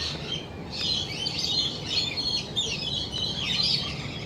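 Many birds chirping and chattering at once, with high, short calls overlapping densely and a brief lull about half a second in.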